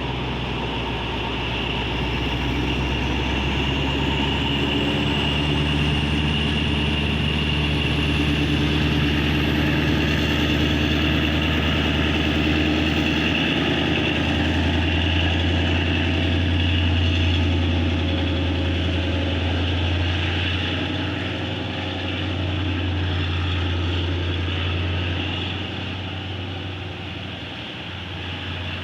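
Diesel-electric locomotive engine (Alsthom 4204) running with a steady, deep drone that grows stronger through the middle, and a faint high whine rising over the first half.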